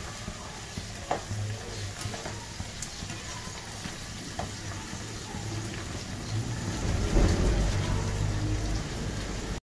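Okra sizzling in oil in a non-stick frying pan as a spatula stirs and scrapes it, with a few sharp clicks of the spatula on the pan. It gets louder about seven seconds in as the okra is tossed, then cuts off abruptly just before the end.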